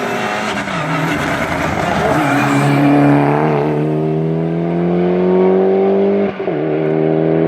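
Race car engine at full throttle, its pitch climbing steadily through one gear, with a quick upshift about six seconds in, after which it climbs again.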